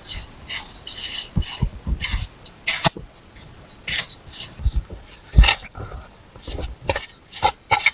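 A busy run of irregular knocks, scrapes and crunches from hands-on work, with several dull thuds, the heaviest about five and a half seconds in.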